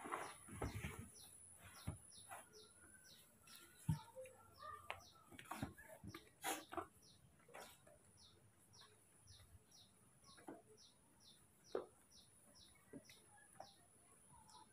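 Quiet, steady run of short, high chirps from a bird, about three a second, each falling slightly in pitch, with a few soft taps and clicks scattered among them.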